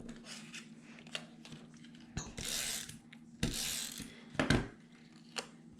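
Paper and card being handled on a craft table: two short swishes of paper sliding, about two and a half and three and a half seconds in, with several sharp clicks and taps from pieces being set down and pressed.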